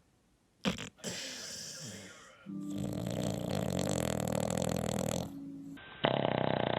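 Dogs snoring in separate short takes: a faint snore about a second in, a long loud snore of nearly three seconds in the middle, and a loud snore made of rapid pulses starting near the end.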